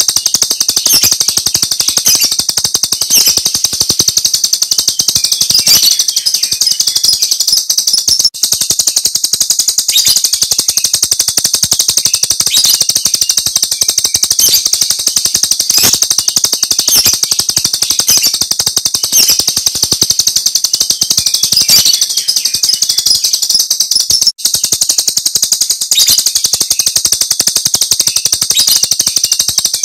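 Jalak Rio's 'tembakan' song: a loud, high-pitched, very rapid rattling series of sharp notes, with stronger accents every second or so. It breaks off for a moment twice.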